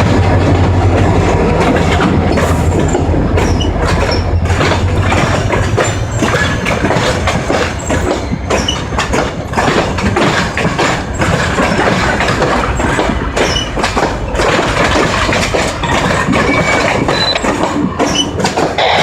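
Train passing: a locomotive's low engine rumble is strongest in the first few seconds, then fades, leaving the cars' wheels clicking and clattering over the rail joints.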